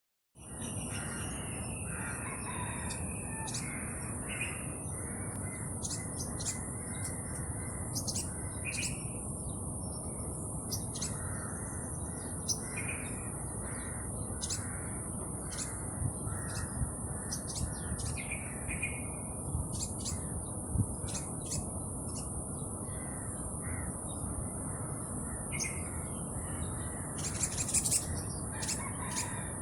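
Small birds chirping: scattered short, sharp, high chirps and brief calls over a steady high-pitched whine and a low background hiss.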